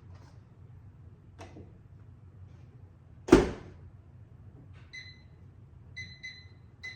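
A microwave oven door is shut with a loud thud, then the keypad gives several short electronic beeps as the cooking time is set.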